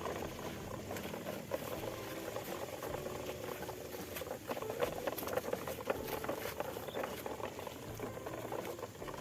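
Toy truck pushed along rough, loose ground: a steady crackling and scraping of its plastic wheels and body, made of many small irregular clicks.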